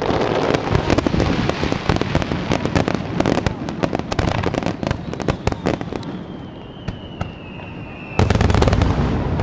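Aerial fireworks display: a dense run of rapid crackling, then a thin whistle slowly falling in pitch, then a loud low boom about eight seconds in.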